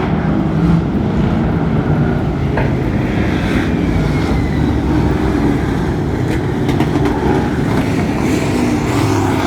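Pro Truck racing trucks circling the oval at pace speed before the start, their engines running together in a steady, loud rumble.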